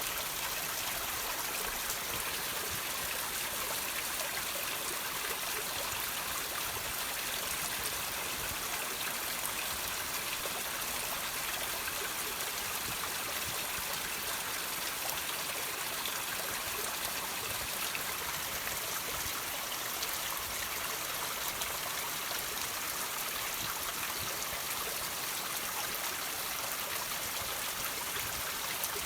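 Water trickling and dripping off rocks in a steady, unbroken hiss of small splashes, mostly high-pitched.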